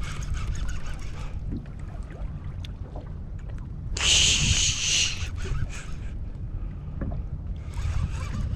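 Steady low rumble of a boat out on the sea, with a loud hiss lasting about a second about halfway through.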